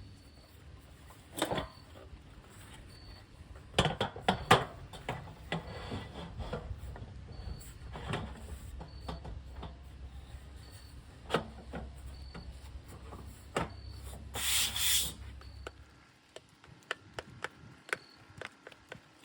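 Scattered knocks, clicks and rubbing scrapes of wood being handled, with a longer scrape about fifteen seconds in.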